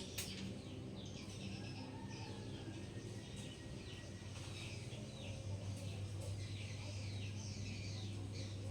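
Bird chirping in a quick series of short, high, falling chirps, over a steady low hum.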